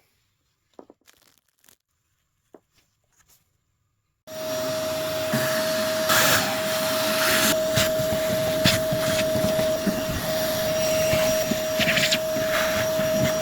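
A few faint taps, then about four seconds in a vacuum cleaner switches on and runs steadily with a constant whine, sucking dirt out of a gas convector heater, with a few brief rattles of debris.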